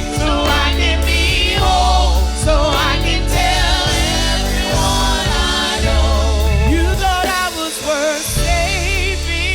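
Live gospel song: a singer holds notes with heavy vibrato over an instrumental accompaniment with a strong, steady bass.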